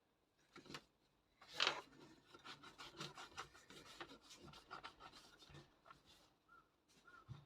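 Pencil writing on paper: a faint run of short scratchy strokes, with a louder stroke about one and a half seconds in.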